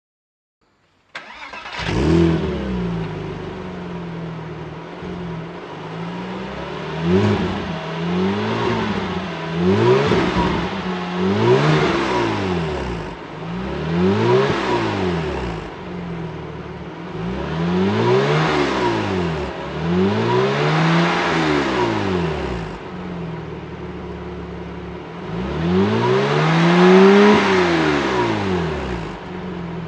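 Porsche Boxster S flat-six engine through a loud Capristo aftermarket exhaust, idling and being revved in short blips about ten times, each rev rising and falling back to idle. The engine sound cuts in abruptly about a second in.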